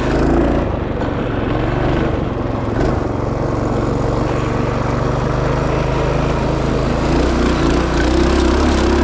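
Minibike's small engine running steadily. Its pitch shifts about seven seconds in as the revs change.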